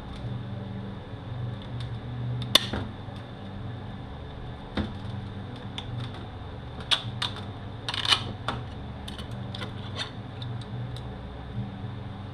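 Metal transmission parts clinking and knocking as they are handled and moved, with a sharp knock about two and a half seconds in and a cluster of clinks near eight seconds, over a steady low hum.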